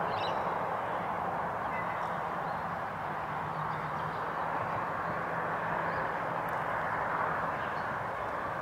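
Steady outdoor background noise with a faint low hum under it that fades out about seven seconds in.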